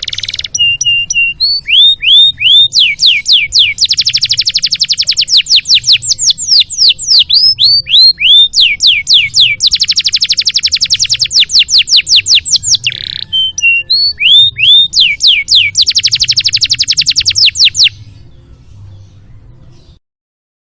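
Domestic canary singing a loud, varied song of very fast trills and runs of repeated down-slurred whistles, stopping about 18 seconds in. A faint low hum lies under it.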